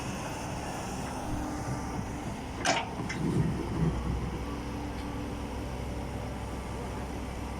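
Heavy diesel machinery running steadily as an excavator loads a dump truck. A single sharp clank comes under three seconds in, followed by a few low thuds.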